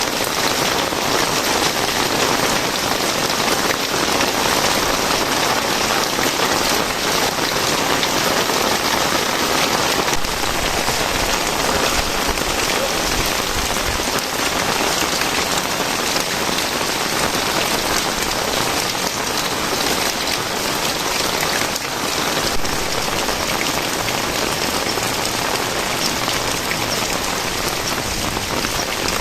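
Heavy, steady rain falling and pattering on surfaces, an even hiss of drops with no letup.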